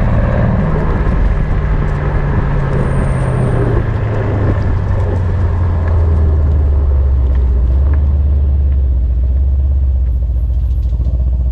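Mercedes-AMG C63 S twin-turbo V8 engine, its note falling as the car slows over the first few seconds, then settling into a low, steady drone.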